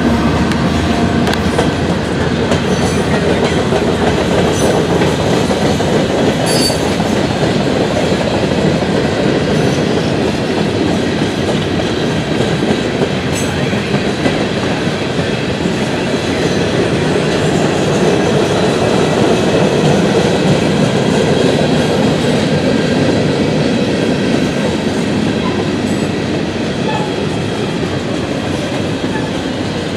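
Empty coal hopper cars of a freight train rolling past at close range: a steady, continuous rumble of steel wheels on the rails, easing slightly near the end.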